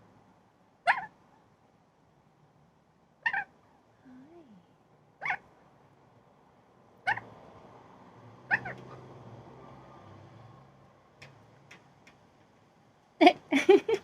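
A pet bird giving short meow-like calls that fall in pitch: five of them, about two seconds apart. A few faint clicks follow, and a quick run of louder calls begins near the end.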